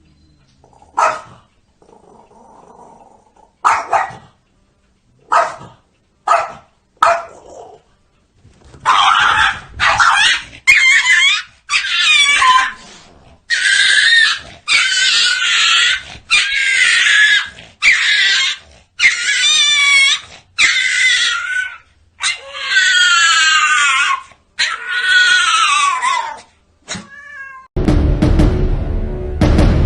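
A cat calling: several short meows, then a long series of drawn-out yowls whose pitch wavers up and down. Music begins near the end.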